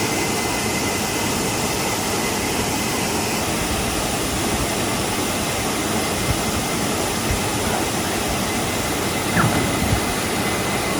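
Waterfall rushing, a steady, even roar of falling water, with a few soft knocks near the end.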